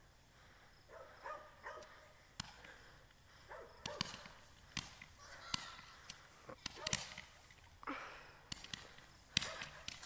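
Faint, scattered sharp pops and cracks of distant fireworks going off at irregular intervals.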